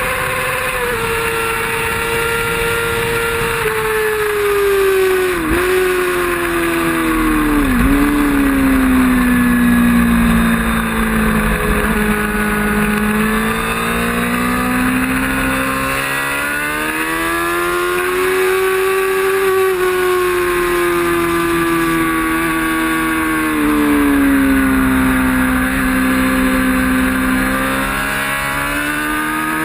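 Racing motorcycle engine running hard at high revs. Its note falls over the first dozen seconds with two quick sharp dips, climbs again, falls, and rises once more near the end, as the bike is ridden through corners and straights on a road course.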